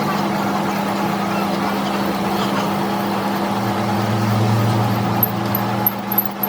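An engine or motor running steadily with a constant hum. A deeper drone swells in the middle, and a faint, rapid, high ticking starts near the end.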